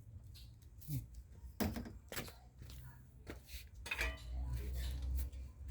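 Scattered light metallic clinks and knocks of a steel floor jack and jack stands being handled, with a low hum for about a second near the end.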